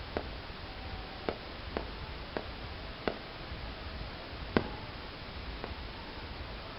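Fireworks shells bursting at a distance: a series of about seven sharp pops at irregular intervals, the loudest about four and a half seconds in, over a steady background hiss.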